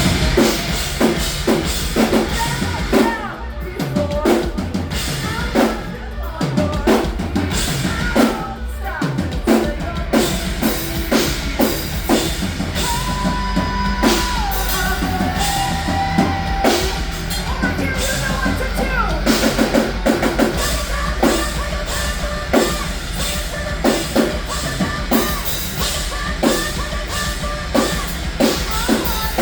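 Rock band playing live through a venue PA, the drum kit to the fore with a steady kick-and-snare beat under sustained guitar and keyboard-type tones.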